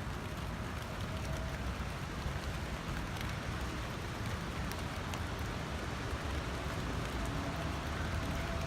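Steady rain, with scattered sharp drop ticks over an even hiss and a low rumble underneath.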